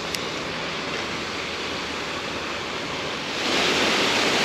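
Creek water rushing, a steady rush that grows louder about three and a half seconds in, with one short click just after the start.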